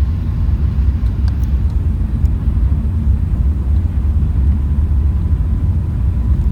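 Airbus A380 airliner heard from on board: a steady low rumble, with a faint thin tone above it.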